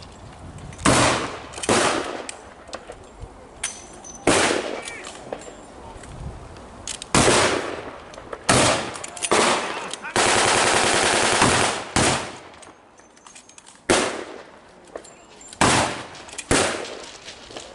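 Mock-battle gunfire from blank-firing weapons: single shots cracking out at irregular intervals, with one sustained automatic burst of about two seconds near the middle.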